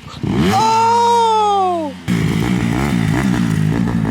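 Dirt bike engine revving: the pitch climbs, then falls away. About halfway through there is a sudden break, and the engine runs on with the throttle rising and falling in quick short blips.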